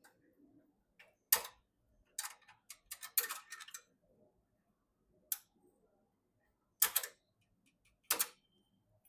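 Sharp clicks and brief rattling from PC parts being handled and fitted. There is one click about a second in, a run of rapid clicks and clatter between two and four seconds in, then single or double clicks near five, seven and eight seconds in.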